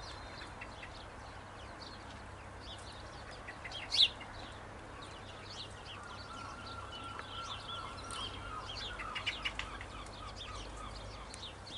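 Songbirds chirping and calling, with one louder, sharp call about four seconds in and a quick run of notes near the end.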